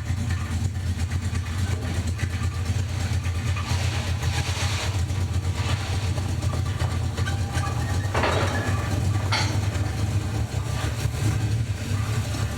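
A vehicle engine running steadily at low speed with a deep, even hum. There are two short hissy bursts about eight and nine seconds in.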